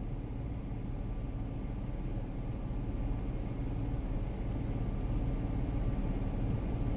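Vehicle engine running with a steady low drone, growing slightly louder.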